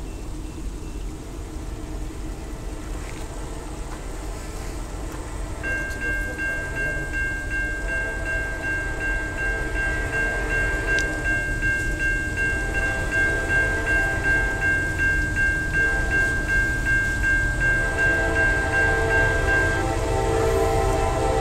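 Approaching Norfolk Southern intermodal freight led by a GE C44-9W diesel locomotive: a low rumble that grows steadily louder as the train nears, with distant horn blasts sounding. From about six seconds in until near the end, a high, steady grade-crossing warning bell rings with a pulsing beat.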